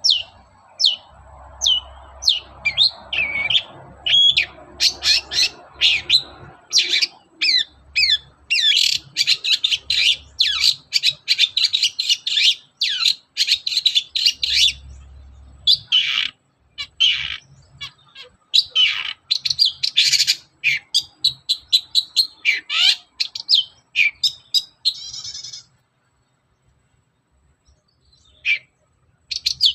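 Long-tailed shrike singing: a fast, dense string of sharp chirps, trills and harsh notes, breaking off for about three seconds near the end before starting again.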